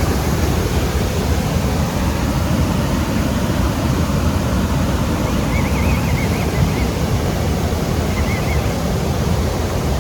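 Steady rushing of water from a waterfall, a constant loud noise heaviest in the lows. Faint high chirping twitters over it twice, about halfway through and again near the end.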